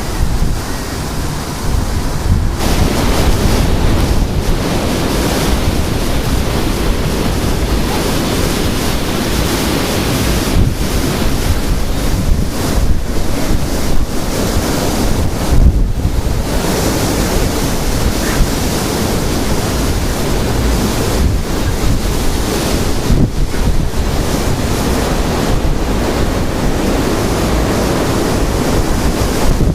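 Strong gusting wind of a snowstorm buffeting the microphone: a loud, continuous rush, heaviest in the low end, that swells and eases with the gusts and briefly drops away about sixteen seconds in.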